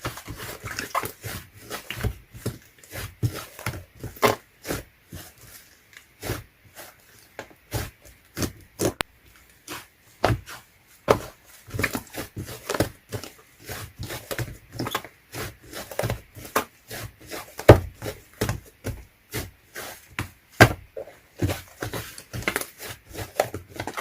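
A dog licking and eating ice cream: a long run of irregular wet clicks and smacks, several a second.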